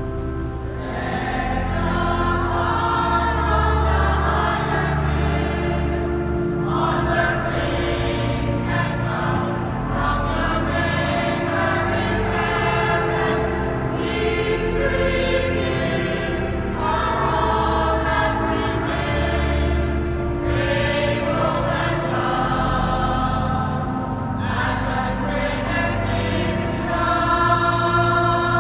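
Church choir singing a sacred piece in phrases, over sustained low accompaniment, in a reverberant cathedral.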